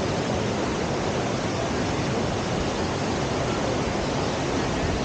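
Steady rush of white water at a river surf wave.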